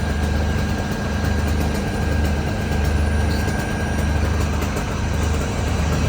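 Heavy diesel engine of a fire apparatus idling steadily: a low, throbbing hum with a faint steady whine above it.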